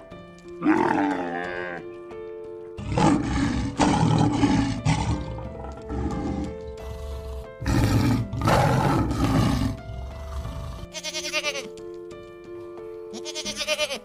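Background music with held notes and animal calls laid over it. The loudest calls come about three and eight seconds in, and a rapid quavering call follows near the end.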